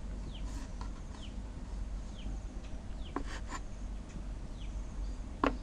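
Faint birds chirping in the background, short falling chirps repeated every half second or so, with a few light taps or clicks about three seconds in and again near the end.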